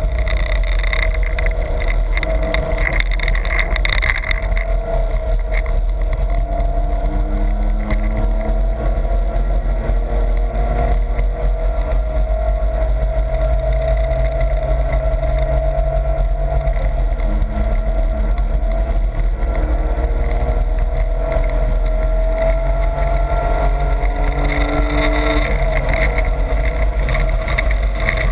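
A BMW E30's engine and road noise heard from inside the cabin while it drives on a racetrack. The engine note stays fairly steady, with its pitch gliding slowly up and down as speed changes.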